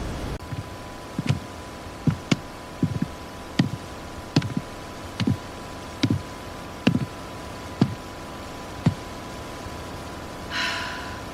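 Footsteps of someone walking: a regular series of dull thuds, each with a sharp click, about one a second, stopping about two seconds before the end. A brief hiss follows near the end.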